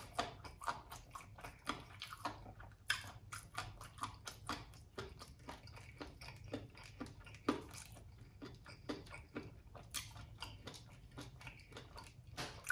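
Close-miked chewing with the mouth closed: soft, irregular wet mouth clicks and smacks as food is worked, a few of them louder.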